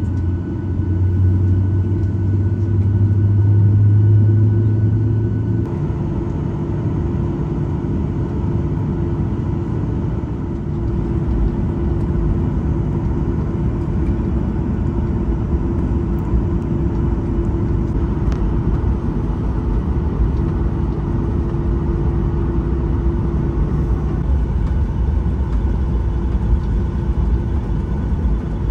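Cabin noise inside a Boeing 737-900ER on the ground: its CFM56 jet engines running at low power with a steady low rumble. A deep hum gives way to a broader rumble about six seconds in.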